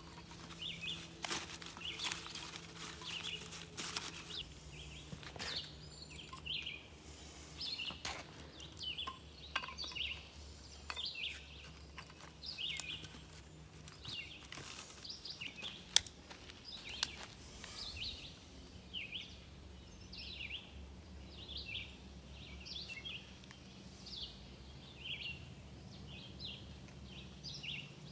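Small birds chirping, short high calls repeating about once or twice a second, over a faint low steady hum. A few sharp clicks or knocks fall in the first third, with one more about halfway through.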